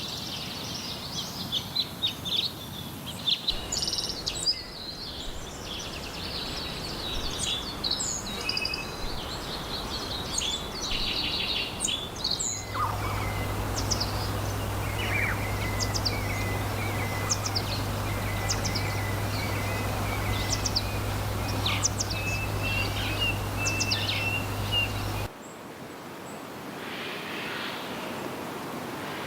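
Small wild birds chirping and singing in quick, overlapping short calls and trills, in three spliced recordings that change abruptly about 13 and 25 seconds in. A steady low hum runs under the middle recording.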